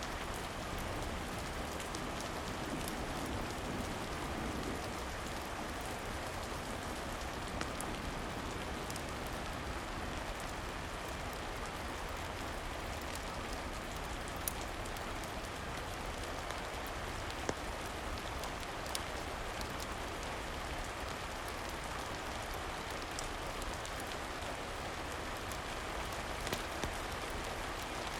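Steady rain falling, an even hiss of drops, with a few sharp isolated clicks scattered through.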